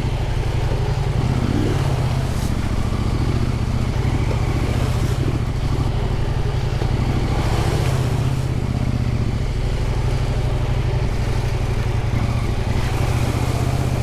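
Husqvarna Norden 901's parallel-twin engine running at steady, low revs as the adventure bike is ridden through mud.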